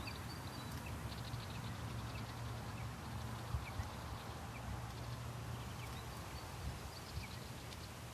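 Wind buffeting the microphone as a steady low rumble, with scattered faint high chirps and a couple of soft knocks about three and a half seconds in.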